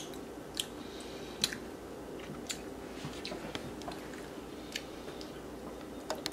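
A person chewing a mouthful of dehydrated tarantula: short, sharp clicks come irregularly, roughly one a second, over a steady low room hum.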